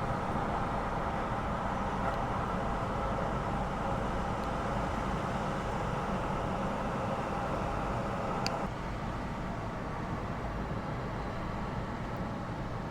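Road traffic on a wet road: a steady rush of lorry engines and tyres. About eight and a half seconds in there is a sharp click, and the sound then drops slightly quieter.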